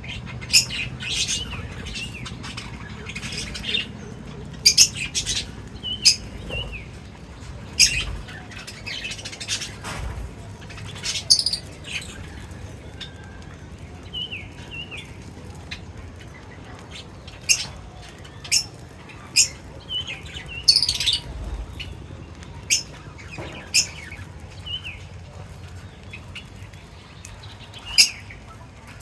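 Pet birds chirping: short, sharp, high chirps at irregular intervals, with a few brief calls that bend up and down in pitch, over a faint low background hum.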